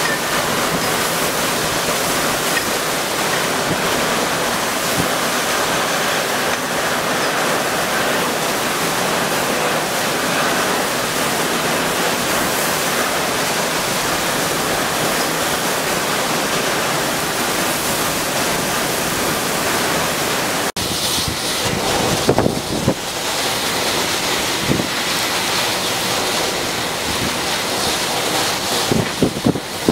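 Storm noise: a steady rush of heavy water and wind. After a cut about two-thirds of the way through, gusts of wind buffet the microphone with low thumps.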